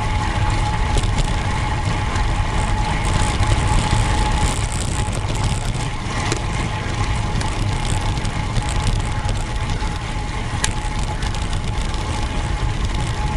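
Road bike riding on tarmac: wind rushing over the bike-mounted microphone with a low rumble and tyre noise, a steady thin whine underneath, and a single sharp click near the end.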